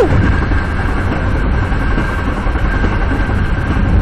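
Metra commuter train running along the main line, heard from inside: a steady rumble of wheels on rail with a faint steady whine above it. A brief falling tone sounds right at the start.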